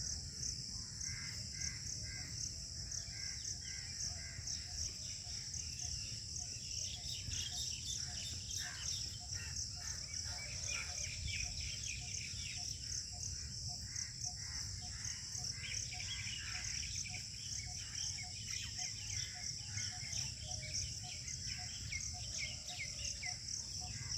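Outdoor ambience: a steady, high insect chorus with birds chirping over it and a low rumble underneath. In the second half, one short note repeats at an even pace.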